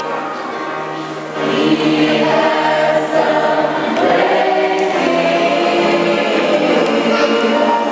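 Choir singing, with long held notes. The singing grows louder about a second and a half in.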